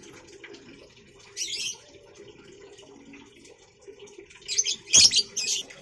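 Pet birds giving shrill high chirps: one short burst about a second and a half in, then a louder flurry of chirps near the end with a sharp click among them.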